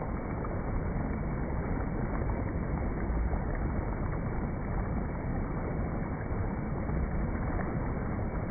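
Soft rain falling steadily, an even hiss of rain and water with no pauses.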